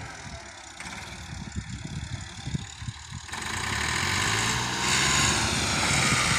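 Massey Ferguson 260 tractor's diesel engine running, with uneven low thumps at first, then the engine noise rising sharply about three seconds in and staying louder as the tractor pulls under load.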